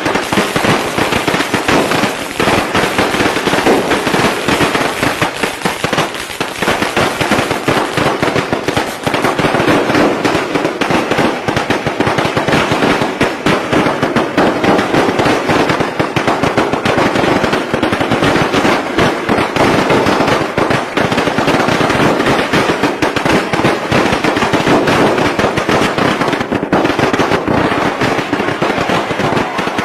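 Strings of firecrackers going off, a dense unbroken crackle of rapid bangs too fast to count, the traditional Vietnamese Tết firecracker barrage.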